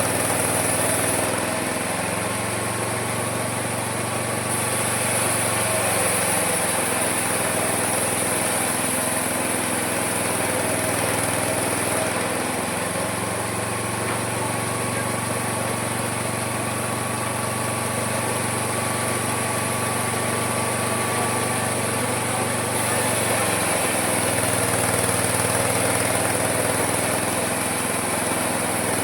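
Small petrol engine of a homemade mini sawmill running steadily under load. Its pitch sags and recovers several times, about two, six, twelve and twenty-three seconds in, as the blade takes the wood.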